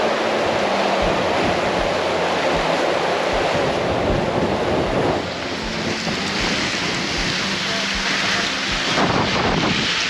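Strong wind buffeting the microphone: a dense, steady rushing noise with low rumbling that eases slightly about halfway through.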